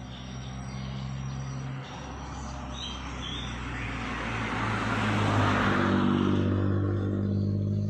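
A motor vehicle passing: a steady engine drone whose pitch shifts a couple of times, with road noise swelling to a peak about five seconds in and then fading.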